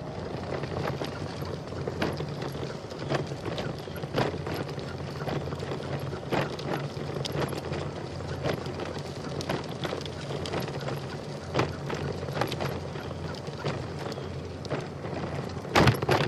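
Bicycle rolling along a trail: a steady rolling noise with frequent irregular clicks and rattles, and a louder clatter near the end.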